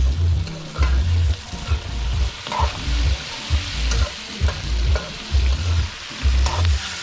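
Boiled sweet potato cubes with onion and seasonings sizzling as they fry in a round-bottomed steel pan. A metal spoon stirs and scrapes them in repeated strokes, a little under two a second.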